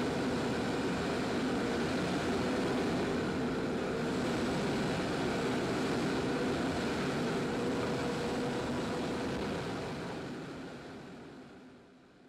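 Firefighting airplane's engine running steadily overhead, then dying away over the last few seconds.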